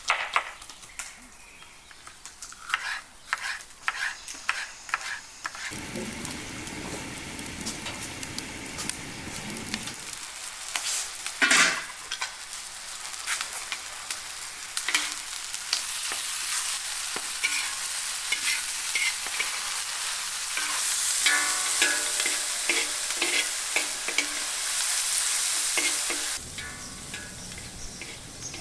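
Food frying and sizzling in hot oil in a pan while it is stirred, the utensil clicking and knocking against the pan. The sizzle grows louder past the middle, holds for about ten seconds, then drops back near the end.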